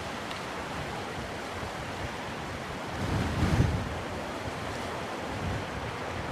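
Black Sea surf washing onto the shore, with wind buffeting the microphone. A louder surge swells up about halfway through.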